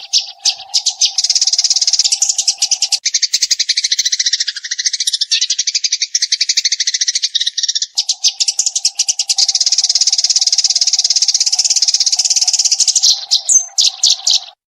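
Eurasian tree sparrow calling in a fast, unbroken stream of high chirps, a rapid-fire chatter. A faint steady hum lies underneath for the first three seconds and again from about eight seconds in.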